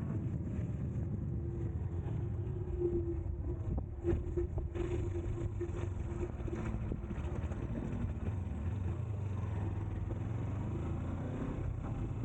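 Motorcycle engine running hard at steady high revs while riding at speed, with wind and road noise over it.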